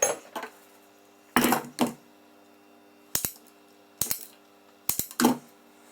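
Small hard objects and tools being handled on a workbench: a scatter of sharp clicks and clatters, several of them in quick pairs, with quiet between.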